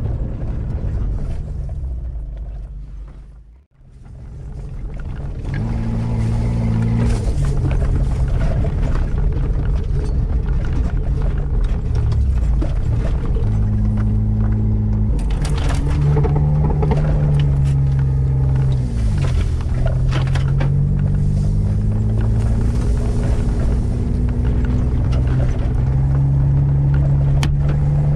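Off-road 4x4's engine running as it drives a rough dirt track, its pitch shifting with throttle, with knocks and rattles from the bumps. The sound dips almost to silence about four seconds in, then returns.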